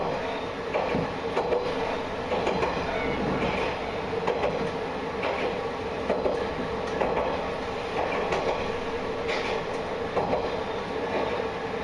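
Diesel railcar running along the line, heard from inside the front of the car: a steady running noise with the wheels clicking over rail joints about once a second.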